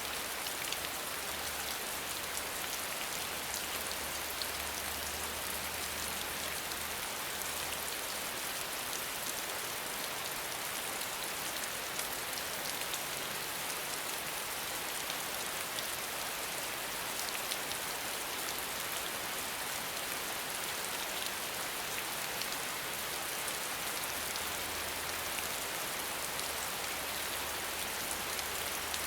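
Steady rainfall, an even hiss of drops with fine scattered patter of individual raindrops landing on a surface.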